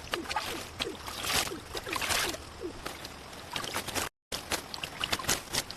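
Water sloshing and splashing, with small plops and light knocks; the sound drops out for a moment about four seconds in, then resumes.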